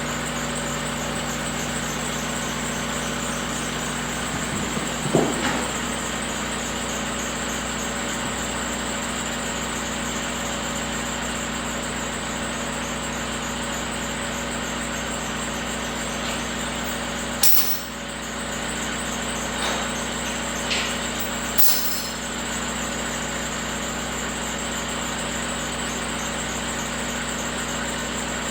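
An engine idling steadily, with a few sharp metallic clanks from tools: one about five seconds in and two more past the middle.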